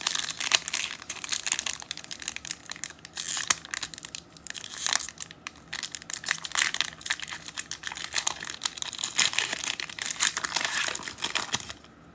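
Wrapper of a pack of football trading cards being torn open and crinkled in the hands, a dense run of crackling that stops just before the end.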